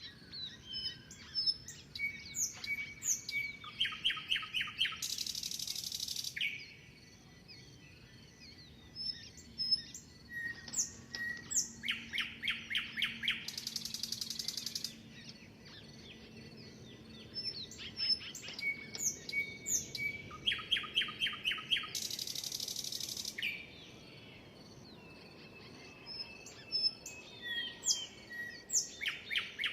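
Small songbirds chirping and whistling. Every eight seconds or so comes the same phrase: a quick rattling run of chirps followed by a short buzzy hiss.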